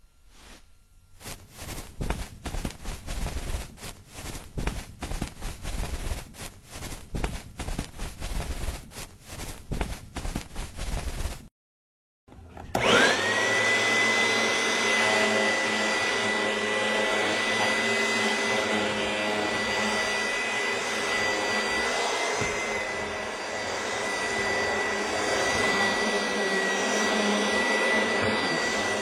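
Irregular clattering and rustling for about eleven seconds. After a short gap, a vacuum cleaner starts, its whine rising quickly and then holding steady.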